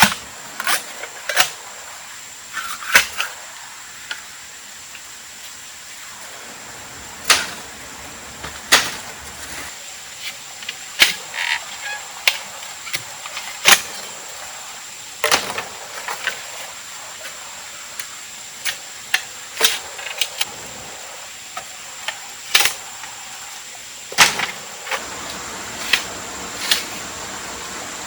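About twenty sharp knocks and cracks at irregular intervals, like hand work on wood or branches, over a steady high-pitched insect drone.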